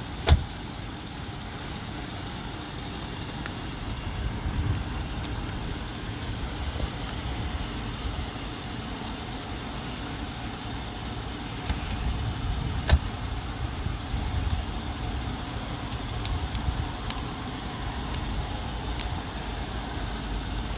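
Steady low rumble of a vehicle engine running, with two sharp knocks, one just after the start and one about 13 seconds in.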